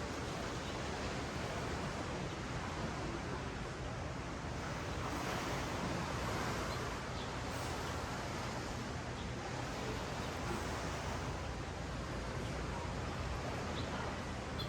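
Ocean surf washing up a beach: a steady hiss of waves that swells a little about halfway through.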